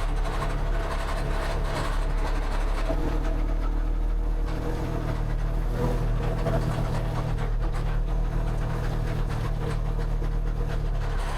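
An engine running steadily at a constant speed, with light clicks and knocks over it.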